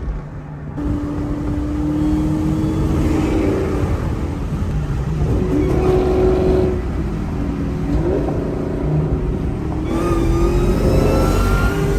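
A supercharged V8 Mustang engine pulling under throttle, its pitch holding, stepping and climbing in turn, with a high supercharger whine rising with it near the end.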